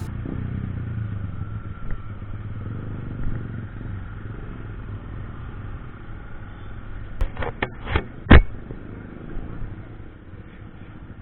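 Motorcycle engine running with a steady low rumble. Four or five sharp clicks come close together about seven to eight seconds in, the last the loudest.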